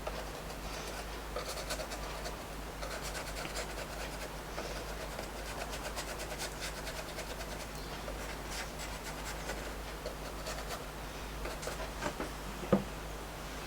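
Damp paintbrush rubbing over paper in faint, scratchy strokes, softening water-soluble Stabilo pencil lines, with a small knock near the end.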